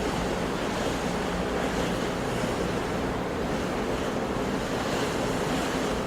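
Sea waves breaking and washing on the shore in a steady wash of surf, with some wind.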